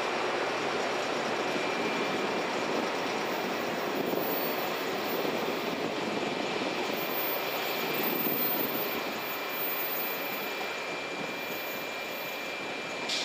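Yellow electric commuter train pulling out of the station: steady running noise of motors and wheels on rail, which fades as the train moves away. A short click near the end.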